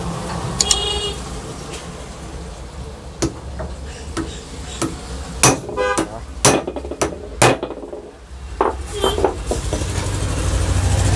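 Hammer striking a pipe drift, knocking a new 2RS sealed ball bearing into the ceiling fan's bearing seat: a run of sharp, irregular metallic knocks, loudest and closest together in the middle.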